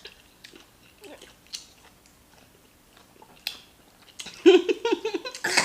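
Soft, sparse chewing and mouth clicks of someone eating rice and stew. About four and a half seconds in, a short, louder burst of a person's voice.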